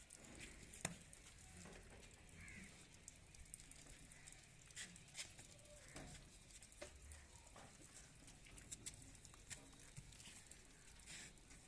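Faint shuffling and scattered light clicks of goats moving about.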